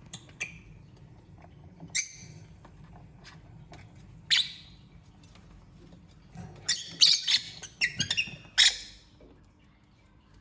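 Lovebirds chirping: a few short, shrill chirps, then a quick run of them from about six to nine seconds in.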